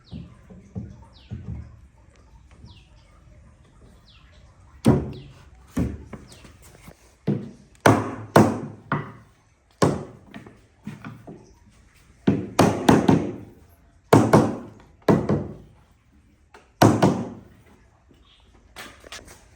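A run of sharp wooden thunks and knocks, about a dozen at uneven intervals and some in quick pairs, starting about five seconds in: wood being knocked or handled in a workshop.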